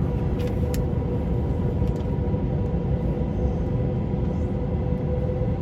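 Steady rumble of an airliner cabin, with a constant hum running through it.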